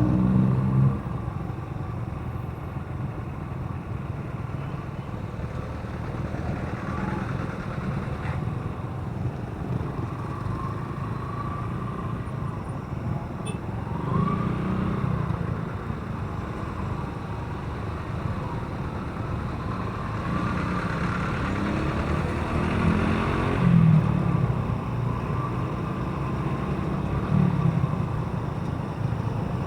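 Motorcycle engine running steadily while riding along a road, with road noise and passing traffic; the engine swells in loudness a few times.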